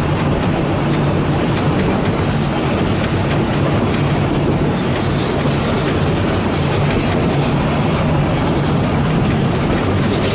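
Steady running noise of a narrow-gauge train heard from a carriage window: the coach rumbling along with wheels on the rails.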